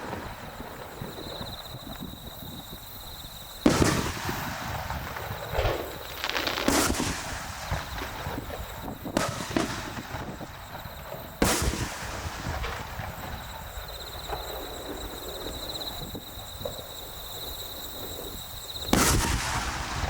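Aerial firework shells bursting: several booms a second or more apart, three of them the loudest, with crackle and rumble between.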